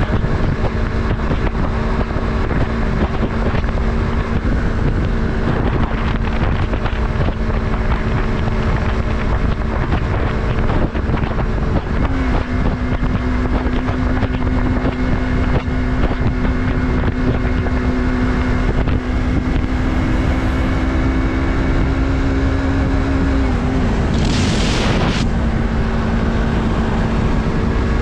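Yamaha MT-03's 321 cc parallel-twin engine running at a steady cruise, with wind rushing over the microphone. The engine note rises slightly about twelve seconds in, then dips briefly and settles a little higher near the end, where a short loud hiss cuts through.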